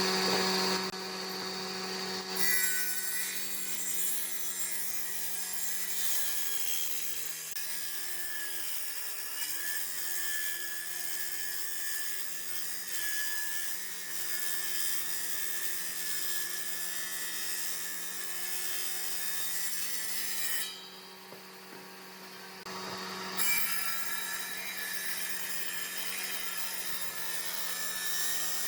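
Electric woodworking machine running and working wood: a steady motor hum under a hiss of cutting. The hum sags in pitch about eight seconds in, as if under load. The cutting hiss stops for a couple of seconds around twenty-one seconds in, then starts again.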